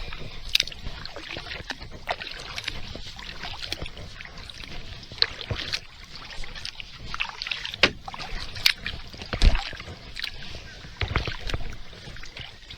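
Kayak being paddled: water splashing and dripping from the paddle blades, with scattered sharp clicks and a couple of dull thumps.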